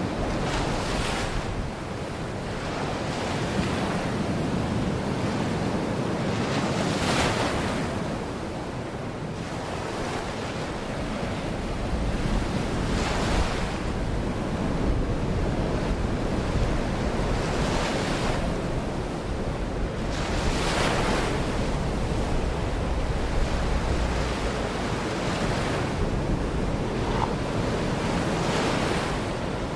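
Baltic Sea surf breaking on the shore, a steady rush of water that swells into a hiss every few seconds as each wave comes in, with wind rumbling on the microphone.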